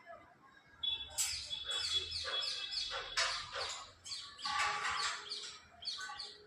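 Pet parrot calling in a rapid run of short, high, falling notes, several a second, starting about a second in and lasting about five seconds.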